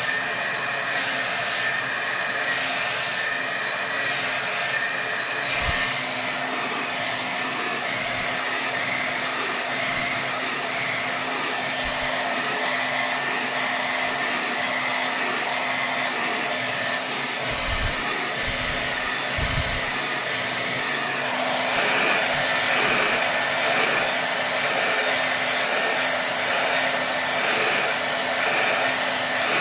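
Hair dryer running steadily at full power, a continuous rush of air with a steady motor whine; its tone shifts slightly about twenty seconds in.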